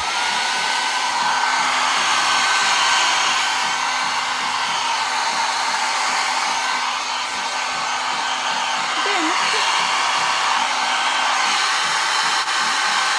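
Mini hair dryer switched on: its motor whine rises briefly as it spins up, then runs steadily with the rush of blown air.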